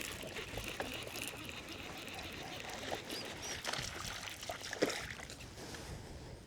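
Water sloshing and trickling close by, with a few small knocks and clicks.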